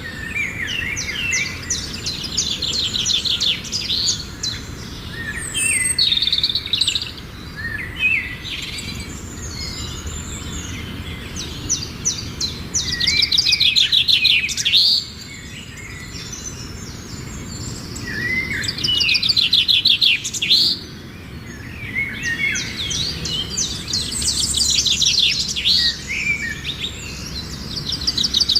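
Small birds chirping in quick bouts of rapid, repeated high notes, each bout lasting a second or few, with a faint steady background hiss.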